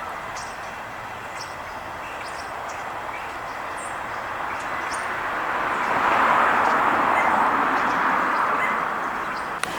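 A road vehicle passing, its tyre and engine noise swelling to a peak about six seconds in and then fading. Faint bird chirps sound above it.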